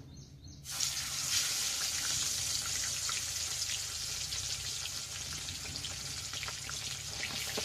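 Food dropped into hot oil in a pan, breaking into a loud, steady, crackling sizzle that starts suddenly a little under a second in.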